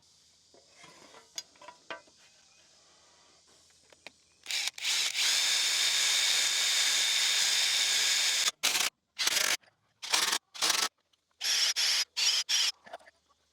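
Cordless drill running. A few light knocks come first, then one steady run of about four seconds, then a string of short bursts that each stop abruptly.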